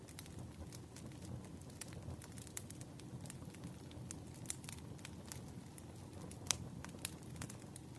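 Wood fire crackling: a low steady rumble with many small irregular pops and snaps, and one sharper pop about six and a half seconds in.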